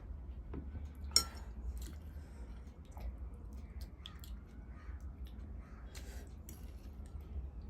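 A person chewing food close to the microphone, with scattered wet mouth clicks and smacks and one sharp click about a second in.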